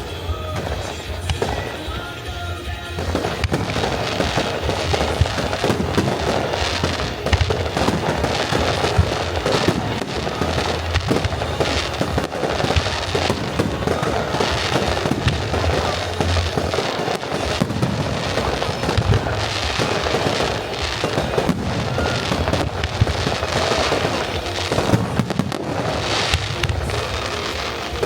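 Aerial fireworks going off in rapid, continuous succession, sharp bursts and crackling one after another, over music played alongside the show.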